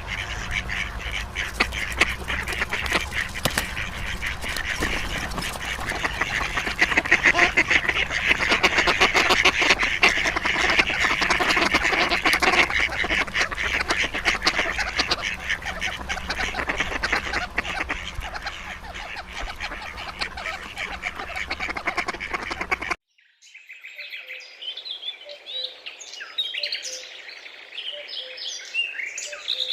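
Dense, continuous calling of a large flock of birds. About 23 seconds in it cuts off abruptly, and a quieter scene of small birds chirping follows.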